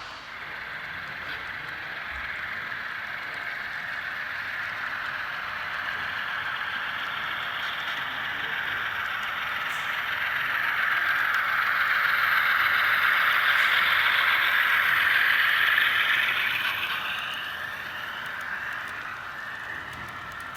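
HO-scale model train rolling along the track, its wheels and motor making a steady rattling hiss that builds slowly, is loudest well past the middle, then falls away about three seconds before the end.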